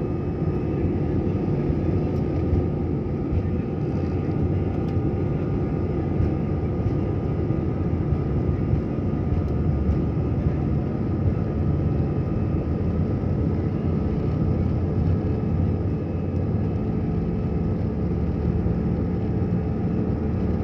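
Jet airliner's engines running at a steady level during takeoff: a dense low rumble with a few faint steady whining tones over it.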